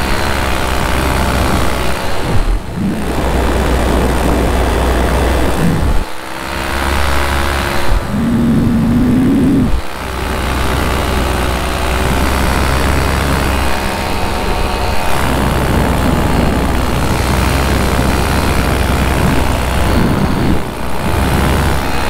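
Minari F1 two-stroke paramotor engine and propeller running steadily in flight, with wind rumbling on the microphone. The engine note dips briefly a few times and a higher tone rises around eight to ten seconds in.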